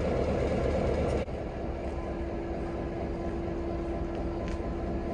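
1951 EMD F7 diesel locomotive running steadily. After a cut about a second in, a steady hum sits over the engine noise.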